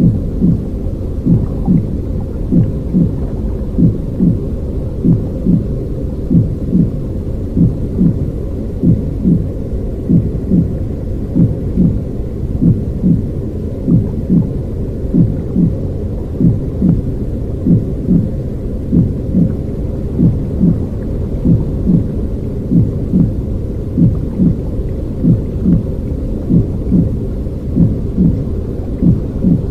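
Baby-soothing womb-style sound: a deep, muffled rushing noise with a steady soft heartbeat-like pulse, about one and a half beats a second.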